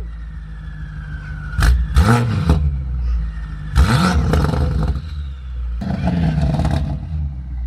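2020 BMW M8 Competition's twin-turbo V8, fitted with aftermarket downpipes and front intakes, idling and revved three times, about two seconds apart, each rev rising and falling back to idle.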